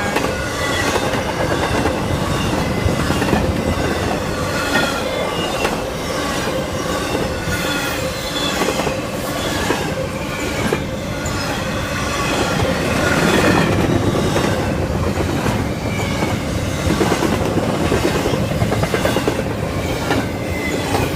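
CSX freight train cars rolling past at close range: a steady loud rumble with wheels squealing in wavering high tones and clacking in a regular rhythm over the rail joints.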